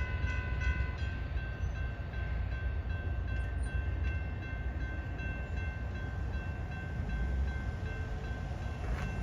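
Amtrak Sunset Limited passenger train rolling past, with a steady low rumble of wheels on rail. Over it sits a high steady ringing tone that drops in strength about a second in and fades away over the next several seconds.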